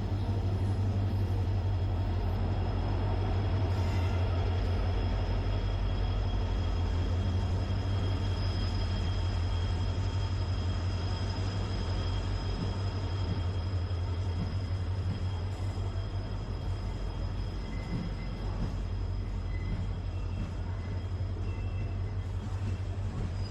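Passenger train at a station platform, a steady low rumble with a faint, steady high-pitched whine above it.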